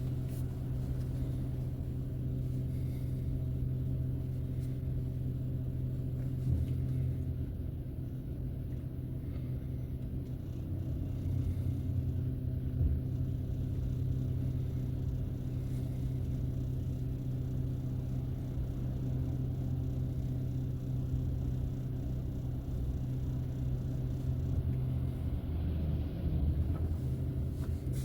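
Steady low drone of a car driving, engine hum and road rumble heard from inside the cabin.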